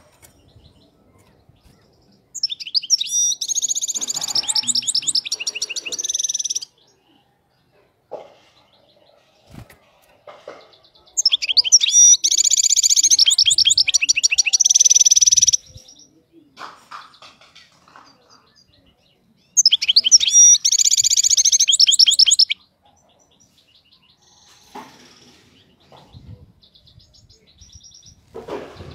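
European goldfinch singing in three bouts of a few seconds each, fast high twittering trills with pauses between them. The title calls it a clean 'khalawi' song free of faults.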